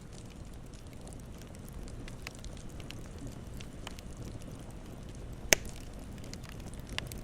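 Campfire burning with a steady low rush and scattered crackles, one sharp loud pop about five and a half seconds in and a smaller one near the end.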